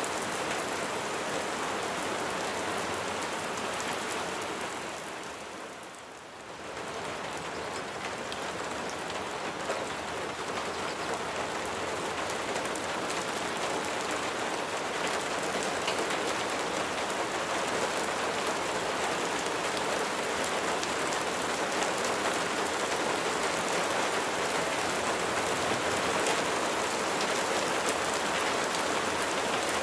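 Steady rain falling on a surface, an even hiss of many drops. About five seconds in it fades down briefly and swells back up within a couple of seconds.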